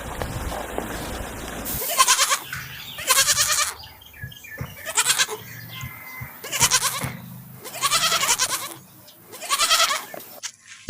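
Goats bleating, starting about two seconds in: about six separate calls, each under a second long.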